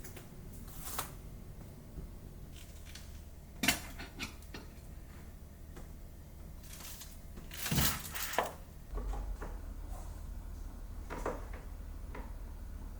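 Kitchenware being handled and set down: scattered light clinks and knocks, the loudest a few seconds in and a cluster about eight seconds in.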